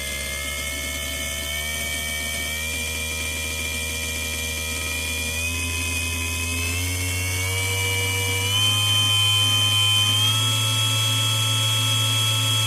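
BOMA inrunner electric motor spinning freewheel with no load: a steady whine that steps up in pitch a few times as it speeds up, getting slightly louder. It runs smoothly here, without the stuttery undertone it makes at times.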